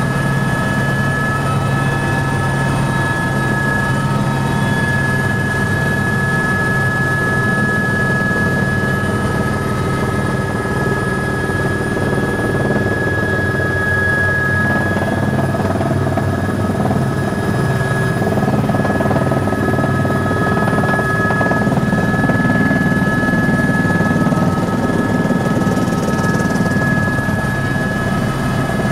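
Tour helicopter running steadily in flight, heard from the passenger cabin: a constant engine and rotor drone with a high steady whine over it.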